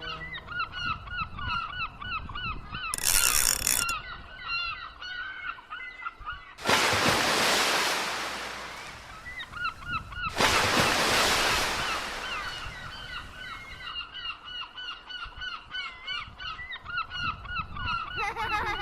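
A flock of geese honking, many short calls overlapping without a break. A loud rushing noise comes over it three times: briefly about three seconds in, then twice for several seconds each.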